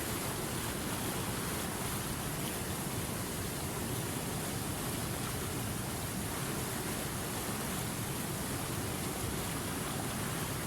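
River water rushing steadily over rocks, an even, unbroken hiss.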